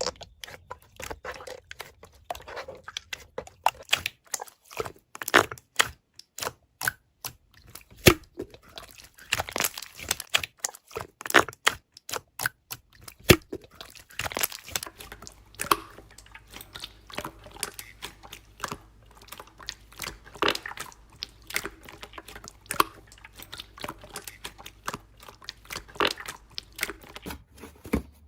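Toy slime being squeezed, poked and stretched by hand, giving a fast, irregular run of sticky crackles, pops and clicks.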